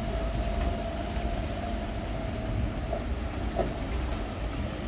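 Bus or truck engine running with a steady low rumble. A faint whine fades out about halfway through, and there are a couple of short squeaks just after.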